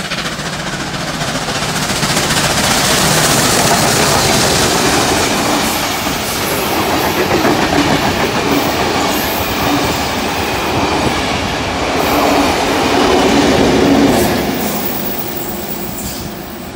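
Passenger train of old carriages, hauled by steam locomotive 3801 with Class 42 diesel 4201 at the rear, passing close by at speed: a loud, steady rumble of wheels running on the rails. It builds over the first couple of seconds, holds while the carriages go past, and fades near the end as the train draws away.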